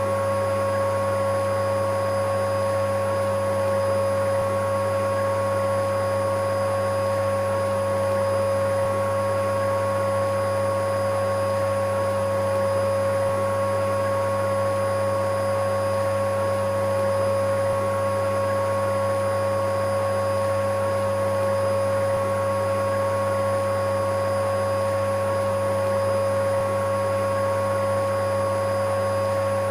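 Electric vacuum cleaner running steadily, a constant motor whine over a low hum and an even rush of air, with no change in pitch or level.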